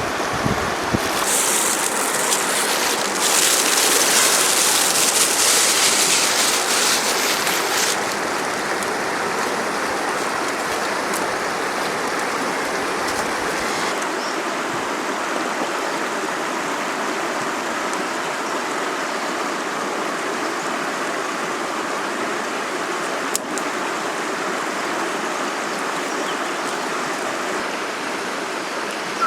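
A river running: a steady rush of flowing water. For the first eight seconds or so a brighter hiss lies over it.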